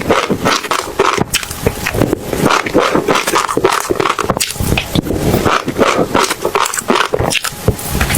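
Close-miked chewing, with seeds crunching and cracking between the teeth in quick, irregular crackles.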